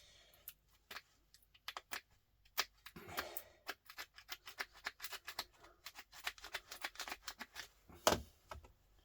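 Irregular small clicks and taps of hand tools and metal and plastic parts as a small electronic device is taken apart by hand, with a short scrape about three seconds in and a louder knock about eight seconds in.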